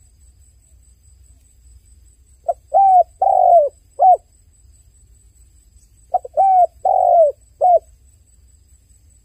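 A dove cooing: two phrases of four coos each, the phrases about three and a half seconds apart.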